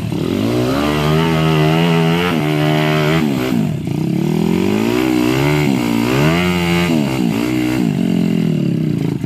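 Trail motorcycle engine revving up and down several times as the bike pulls away and works over rough ground.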